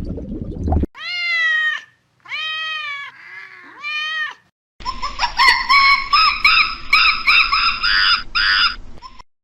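Animal calls: first three drawn-out cries, each rising and then falling in pitch, then from about five seconds in a dense run of quick, high-pitched calls that stops shortly before the end.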